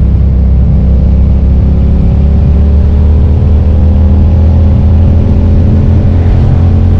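2005 Suzuki SV650S's 90-degree V-twin engine running under way, its pitch rising slowly from about two seconds in as the bike gently accelerates.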